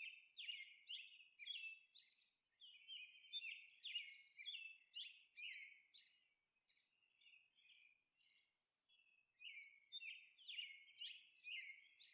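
Faint birdsong: small birds chirping in quick short notes, about two or three a second, pausing for a few seconds in the middle before starting again.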